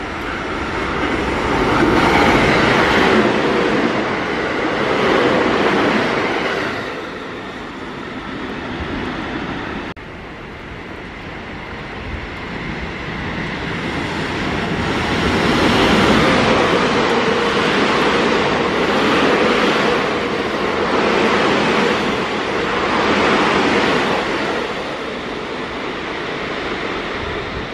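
Electric trains running through the station one after another: a rush of steel wheels on rail that swells up and fades away, first over the opening several seconds and then again, longer and louder, from about halfway through.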